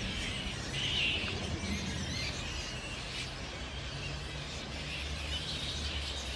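A flying-fox colony chattering and squealing in irregular bouts, the loudest about a second in, over a low steady hum.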